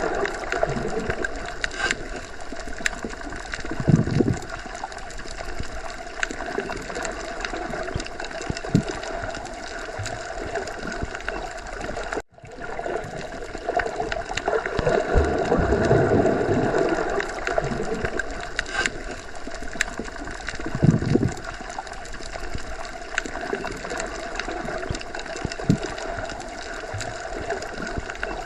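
Underwater sea ambience: a continuous muffled wash of water, with low surges swelling about 4 and 21 seconds in and a brief cut to near silence about 12 seconds in.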